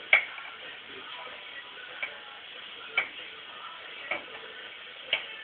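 Five sharp clicks at uneven spacing of about a second, the first the loudest, over a steady background hiss.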